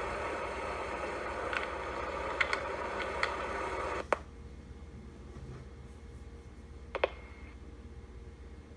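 Cessna 172 engine idling just after start, heard inside the cockpit, with several small switch-like clicks. About four seconds in a sharp click comes and the sound drops suddenly to a much quieter steady hum, with one more click near seven seconds.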